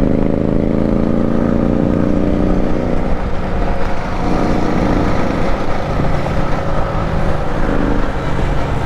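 Motorcycle engine running on the move, its pitch falling over the first three seconds as it slows, then holding steadier, over a constant rumble of wind on the microphone.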